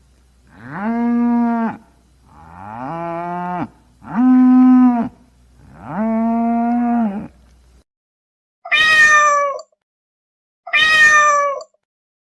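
Cow mooing four times, each call held for about a second at a steady pitch, then a cat meowing twice with short calls that fall slightly in pitch.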